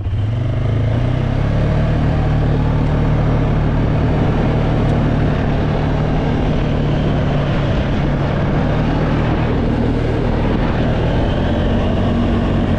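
Four-wheeler (ATV) engine running while being ridden, rising slightly in pitch as it picks up speed in the first second or two, then holding steady.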